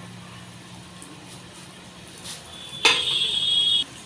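Breadcrumbed chicken cutlets shallow-frying in hot oil over a low flame. Low background hum, then a little under three seconds in a loud hiss of sizzling oil that lasts about a second and cuts off suddenly.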